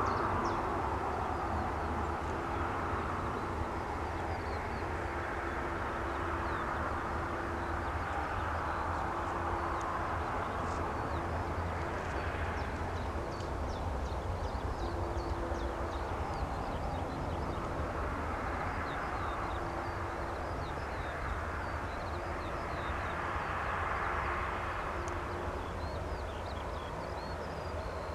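Steady outdoor rumble with wind noise swelling and easing every few seconds, and small birds chirping throughout.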